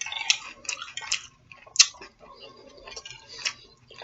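Close-miked eating sounds: wet mouth clicks and smacks while chewing, coming irregularly, several a second at times.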